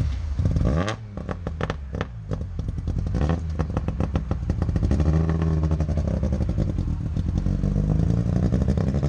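Vintage Saab 96's two-stroke three-cylinder engine revving in quick bursts with a rapid popping exhaust, then pulling away with its pitch rising and falling.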